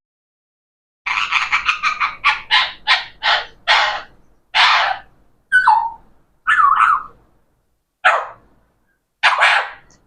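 Talking parrot giving a rapid run of short, harsh, chattering calls, then several single calls about a second apart.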